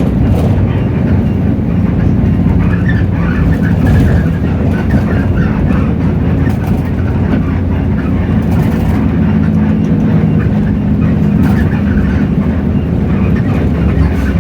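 Hino J08E-VN six-cylinder diesel engine of a city bus running steadily while under way, heard from inside the bus, with a few brief clicks and rattles.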